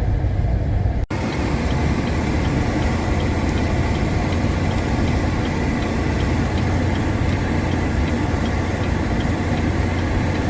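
Vehicle engine idling steadily under an even rushing noise, with faint regular ticks about three a second. A sudden break about a second in.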